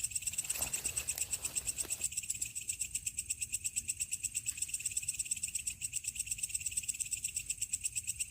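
Night insects chirping in a steady, rapid pulsing chorus, a shrill high buzz repeating several times a second, with a few faint handling knocks in the first two seconds.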